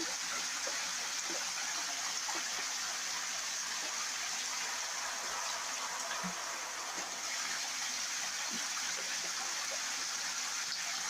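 Water running steadily from the tap into a bathtub, an even rushing with no pauses.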